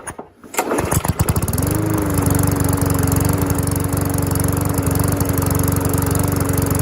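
Small single-cylinder engine on an MTD push lawn mower firing unevenly, picking up speed over the first two seconds or so, then settling into a steady run. The owner finds the running speed a little slow.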